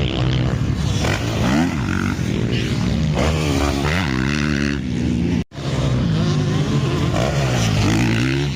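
Motocross bike engines revving up and down as riders go round the track, the pitch climbing and falling again and again, with more than one bike heard at once. The sound cuts out for a split second about halfway through.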